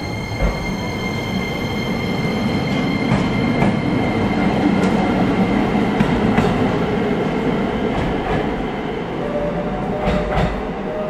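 JR West 125 series electric train pulling away: a low rumble of wheels and running gear that swells as it gathers speed, with clacks as the wheels cross rail joints. Near the end a steady electric whine rises slowly in pitch as the train speeds up.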